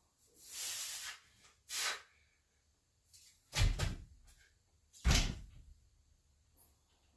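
Two short hissing breaths, then two heavy thuds about a second and a half apart, each with a brief rattle after it, as gym equipment is set down or knocked during a set of overhead presses.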